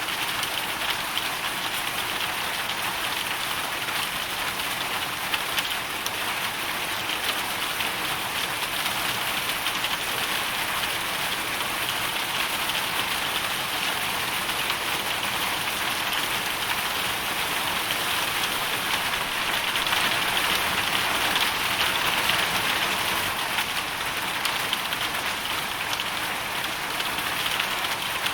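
Hailstorm: a dense, steady patter of hail and rain on a surface, swelling slightly about two-thirds of the way through.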